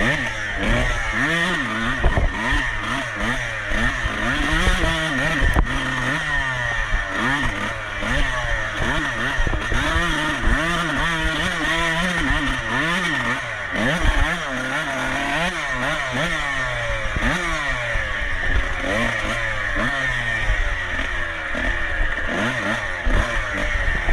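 Dirt bike engine racing over rough ground, its pitch revving up and dropping back again and again, every second or two, as the throttle is worked.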